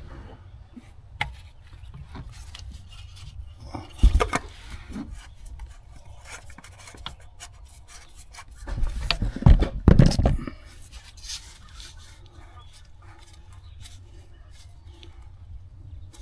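Hands working the cartridge oil filter and its plastic housing cap back into place: rubbing and scraping with scattered small clicks, a sharp knock about four seconds in and a louder run of knocks and scraping around nine to ten seconds in.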